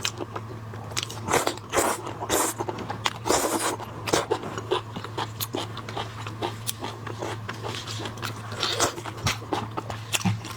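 Close-miked eating of shellfish: irregular crunchy bites and chewing, with sharp clicks of shell cracking and wet mouth sounds, heaviest in the first few seconds. A steady low hum runs underneath.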